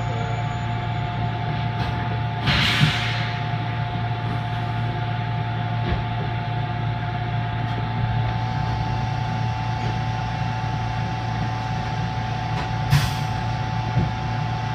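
JR East 583-series electric train heard from inside its lead car: a steady low hum with a steady higher whine from the train's equipment. Two short bursts of hiss come through, one about two and a half seconds in and a briefer one near the end.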